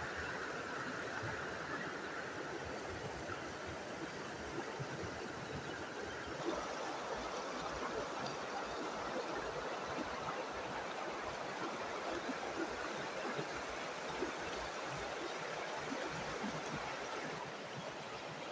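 Running water of a stream, a steady rushing that shifts slightly in tone about six seconds in.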